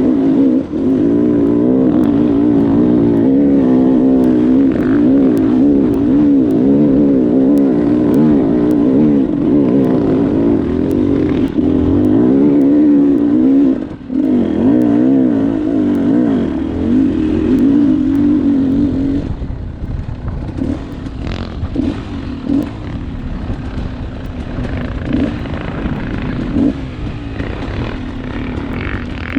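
Dirt bike engine running hard off-road, its revs constantly rising and falling as the throttle is worked. About two thirds of the way through it drops to a quieter, lower note, with scattered sharp knocks.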